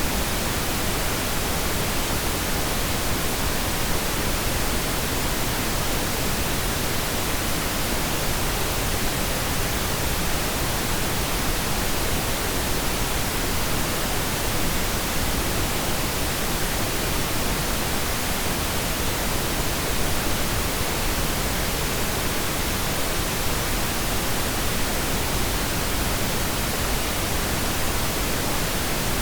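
Steady pink noise: an even, unbroken hiss with no changes or separate events.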